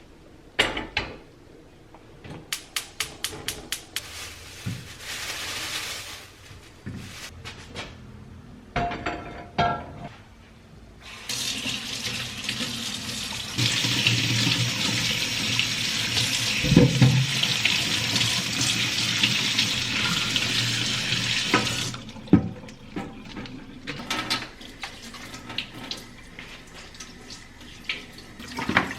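A tap running into a sink for about ten seconds in the middle, as a steady rush of water. Before it come a quick run of clicks and some short clatters, and a few knocks follow it.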